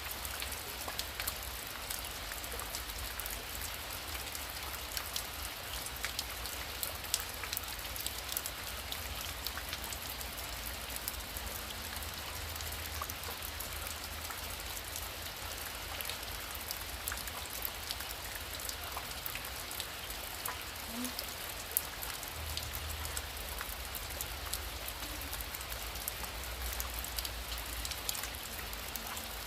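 Heavy rain falling steadily, an even hiss dense with the sharp ticks of individual drops striking a surface, over a low rumble.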